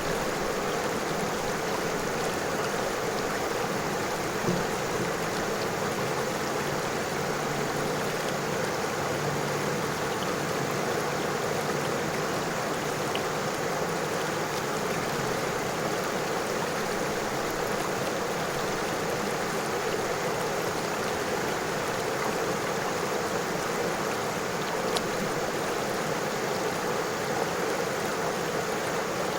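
River water flowing steadily over stones, an even rushing sound with a couple of faint splashes or ticks.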